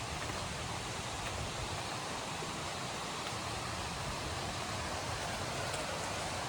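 A river rushing steadily, a constant wash of running water.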